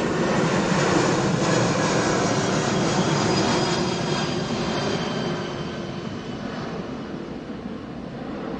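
Jet aircraft engines running loud: a broad rushing noise with a few thin whining tones, fading gradually over the last few seconds.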